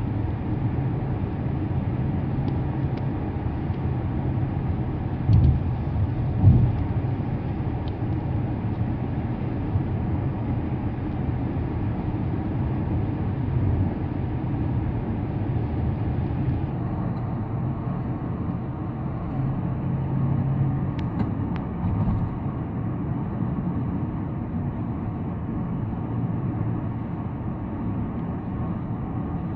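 Car driving at speed on a road, with a steady rumble of tyres and engine. Two louder thumps come about five and six and a half seconds in.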